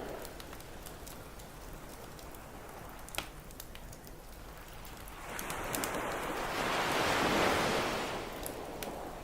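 Ocean surf washing onto a beach, with one wave swelling about five seconds in and easing off near the end. Sharp crackles and pops of a campfire come through, the loudest about three seconds in.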